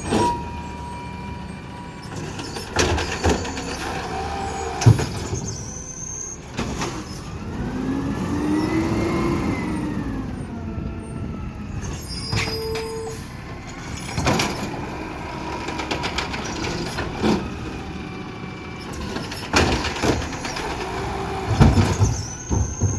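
Garbage truck working, its engine pitch rising and then falling around the middle, with scattered knocks and clanks and a short tone about halfway through.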